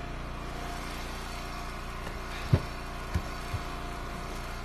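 Gas engine of a hydraulic wood splitter running steadily, with three dull knocks of split firewood pieces about halfway through, the first the loudest.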